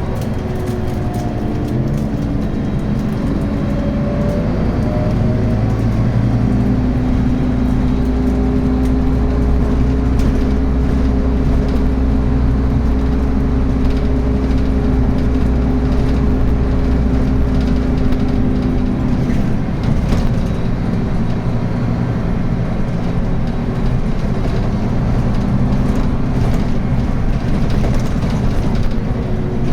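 Scania N280UB city bus with a ZF Ecomat automatic gearbox under way: the engine note climbs over the first few seconds and then holds a steady, strong drone. About two-thirds through the drone drops away and the bus runs on with road and body noise and small rattles, as it does when it eases off the throttle.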